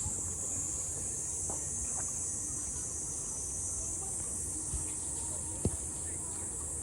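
Steady, high-pitched chorus of insects, with one short knock about two-thirds of the way through.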